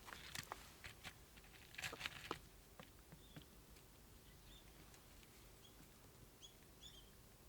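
Near silence with a few light clicks and knocks in the first few seconds, like small parts or tools being handled. After that come faint, short high chirps, repeated several times.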